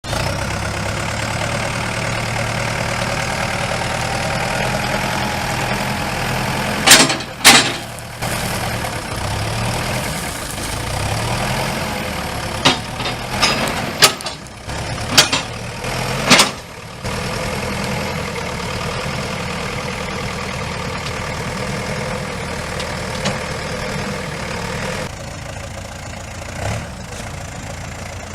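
Terex 760B backhoe loader's diesel engine running steadily, its pitch rising at times as it is revved. Loud sharp knocks come twice about seven seconds in and several more between about twelve and seventeen seconds in.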